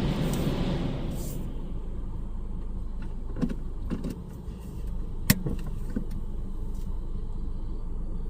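A rush of air from the car wash's dryer blowers, heard from inside the car, fading away over the first second and a half, leaving a steady low cabin rumble. A few light clicks and one sharp click about five seconds in.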